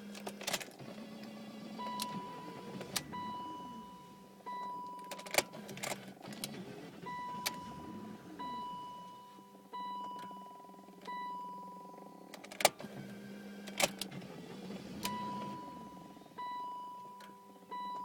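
Inside a BMW E38 with the engine stalled: an electronic warning beep sounds in repeated stretches of about a second, with sharp clicks and a low hum that comes and goes.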